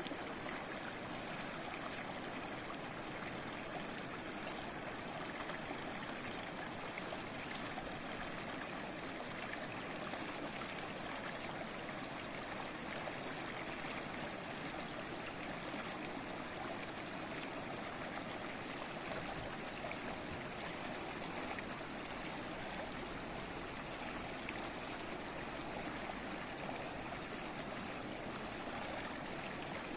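A stream babbling steadily, an even unbroken rush of running water.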